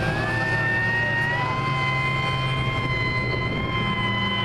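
Radio-controlled model warplane engine whining at high revs in flight. Its pitch rises over about the first second, holds, then sinks slightly near the end.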